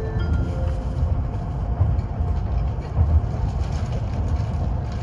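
Shinkansen train running, heard inside the passenger car: a steady low rumble.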